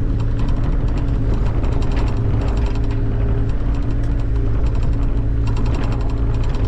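A compact machine's engine running steadily under work, with quick runs of metallic clicking and clattering, the most marked about five and a half seconds in.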